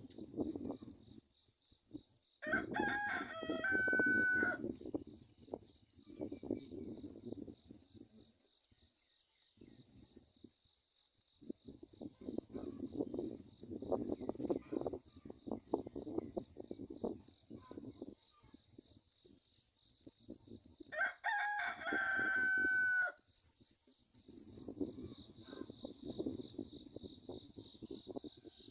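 Insects chirping in a steady, fast pulsing trill throughout, while a rooster crows twice, once about three seconds in and again about twenty-one seconds in. Low rustling noise comes and goes underneath.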